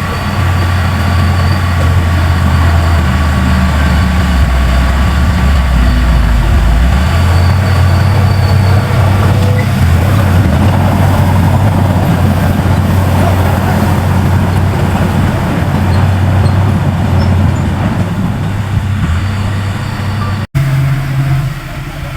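Heavy diesel engine of earthmoving machinery running hard, a loud deep drone. Its pitch drops for a few seconds about four seconds in and comes back up, and near the end the sound cuts off abruptly and switches to a different, lighter engine note.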